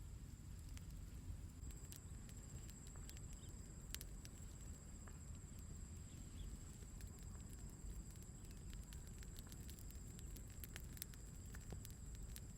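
Faint outdoor ambience: a steady high-pitched insect-like trill, with scattered small crackles and clicks over a low rumble.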